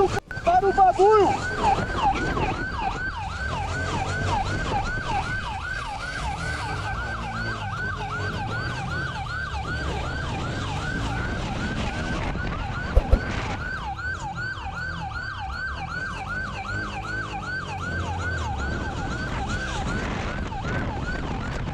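Police siren in its rapid yelp mode, sweeping up and down about three times a second over road and engine noise. Two sharp clicks come about halfway through.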